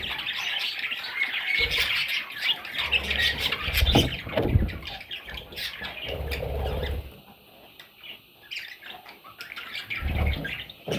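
Budgerigars squawking and chattering in rapid, scratchy calls, easing off into a quieter stretch about two-thirds of the way through before picking up again, with a few low thuds.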